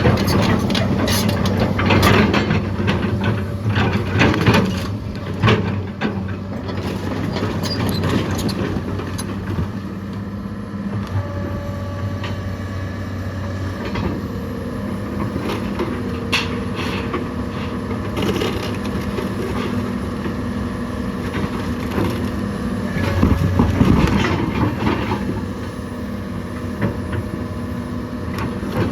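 A heavy machine's engine running steadily while a rotten old house is pulled apart: wood and debris crack and crunch, heaviest in the first few seconds and again late on.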